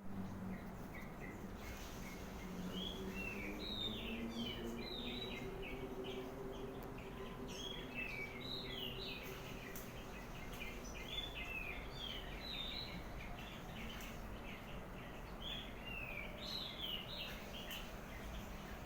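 Birds chirping in quick runs of short, falling notes, with brief pauses between the runs, over a steady low background hum.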